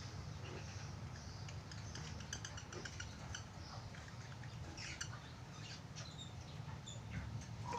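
Budgerigars making soft, scattered chirps and clicks over a steady low hum.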